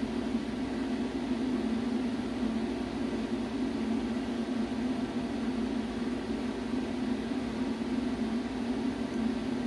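A machine's steady hum, even and unbroken, with no knocks or separate strokes.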